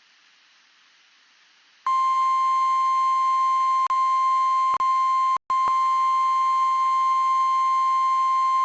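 NOAA Weather Radio warning alarm tone: a single steady 1050 Hz tone that comes in about two seconds in after faint hiss, with a few split-second dropouts, signalling that an emergency warning broadcast is about to follow.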